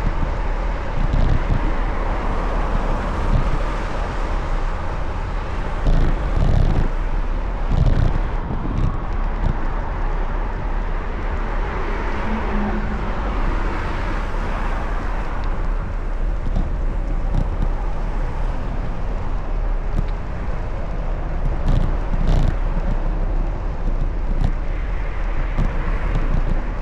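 Steady rush of wind and road noise while riding a bicycle through city traffic, with a few stronger low gusts buffeting the microphone.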